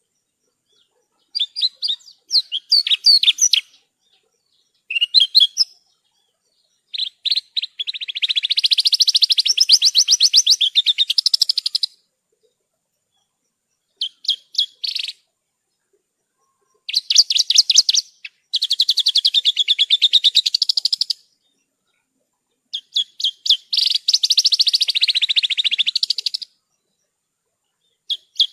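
Javan bush lark (branjangan) singing: bursts of fast, high chattering notes that run into long rapid trills lasting a few seconds each, separated by short pauses.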